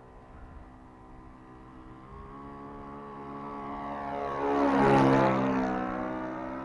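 Model plane's ASP 61 four-stroke glow engine and propeller making a flyby. The steady engine note grows louder, peaks about five seconds in with a drop in pitch as it passes, then fades away.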